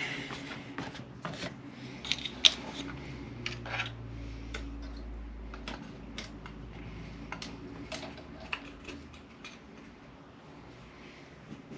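Small tools and parts being handled and set down on a workbench: scattered clicks and light clatter, the sharpest knock about two and a half seconds in.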